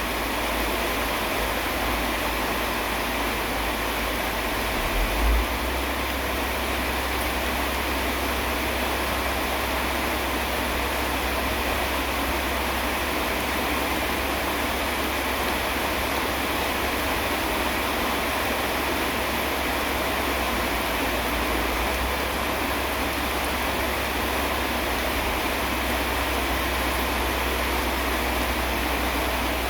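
Steady rain falling, an even hiss with a low rumble underneath, and a brief low thump about five seconds in.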